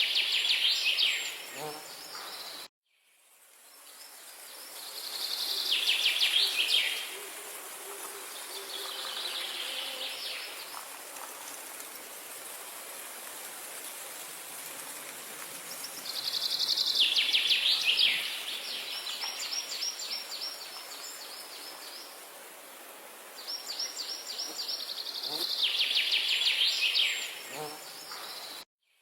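A songbird singing short, rapid trilled phrases that fall in pitch, every few seconds, over a steady outdoor hiss. The sound cuts out abruptly just before three seconds in and again near the end, then fades back in.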